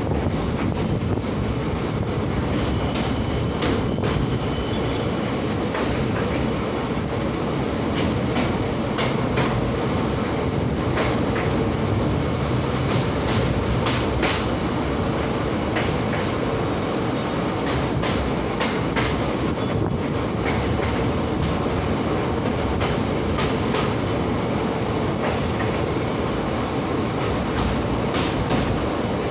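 Passenger train running steadily across a river bridge, heard from aboard: a continuous rumble of wheels on rail with irregular sharp clicks from the rail joints.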